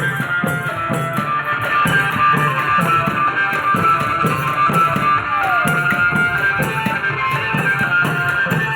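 Klong yao long-drum ensemble playing: the drums beat a quick, steady rhythm with cymbal strokes, under a sustained melody line.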